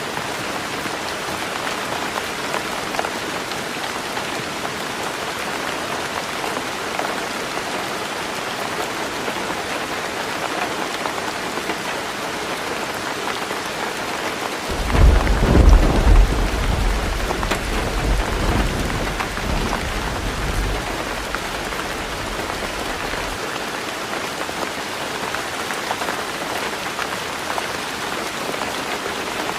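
Heavy rain drumming steadily on a tin roof. About halfway through, a loud low rumble of thunder breaks in suddenly and rolls away over several seconds.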